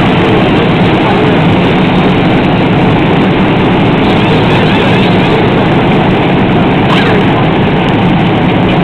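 Loud, steady din of many NASCAR stock car V8 engines running together.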